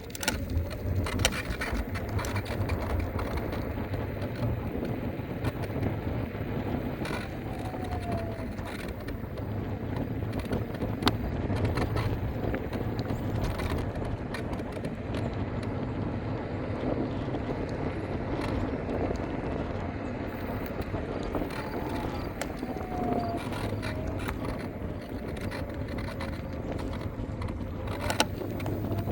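Electric scooter riding along: a steady low rumble from the wheels rolling on pavement, with frequent small clicks and rattles from bumps. A faint whine rises and falls a few times.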